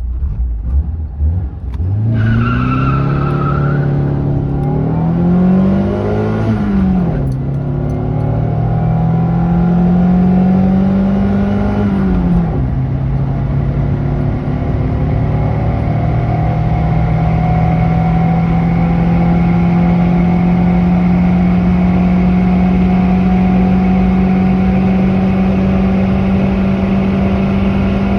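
Fiat Seicento's 1.1 FIRE four-cylinder petrol engine accelerating hard from a standstill. The engine note rises steeply and falls back at two gear changes, about six and twelve seconds in, then climbs slowly and steadily in a higher gear. A brief high whine sounds over the first couple of seconds of pull-away.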